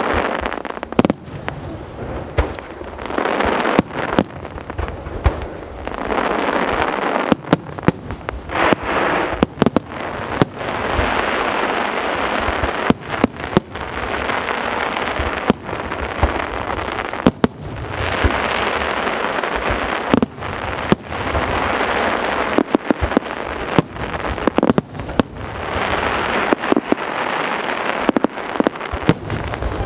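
Aerial fireworks display: dozens of sharp bangs from shells bursting at irregular intervals, some in quick clusters, over a continuous dense hiss and crackle between them.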